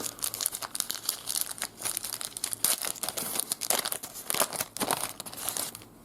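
Wrapper of a 1991 Impel Marvel Universe Series 2 trading card pack being torn open and crinkled in the hands: a dense crackling rustle that stops near the end.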